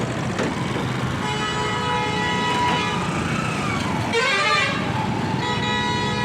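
A vehicle horn sounds in two long steady blasts, about a second apart, over constant traffic rumble. A short wavering sound comes between them.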